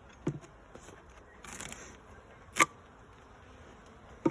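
Wooden beehive parts being handled and moved: a few knocks and clicks and a brief scrape, the loudest a sharp click about two and a half seconds in.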